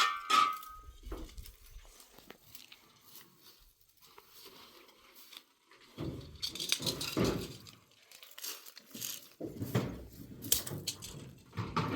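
Rustling and crinkling handling noises with scattered clicks, loudest in two bursts about six and ten seconds in.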